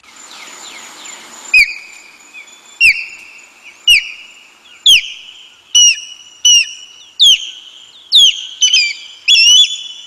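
Recorded osprey call: a run of loud, high whistled notes, each sharply falling and then held briefly, about one a second and coming quicker near the end. It opens with a second or so of background hiss before the first note.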